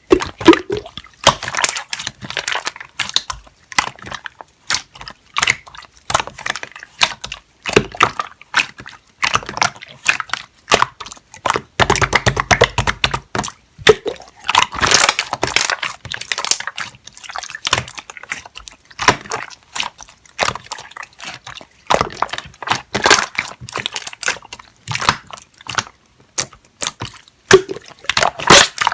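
Hands squeezing, stretching and folding clear slime: a dense, irregular run of wet clicks, pops and squishes.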